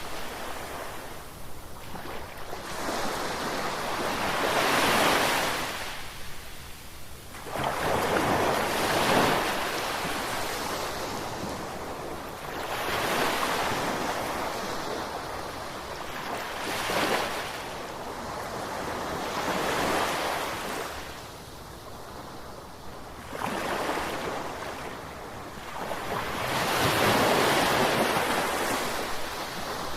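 Ocean waves breaking and washing on a shore, each surge swelling and falling away every three to five seconds, with some wind on the microphone.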